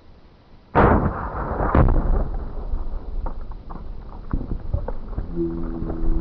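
A 2-pound Tannerite charge detonating when hit by a rifle bullet: one huge sudden boom with a long rumbling decay, a second sharp crack about a second later, then scattered small knocks as flung debris lands. Near the end a low droning tone with slowly falling pitch sets in.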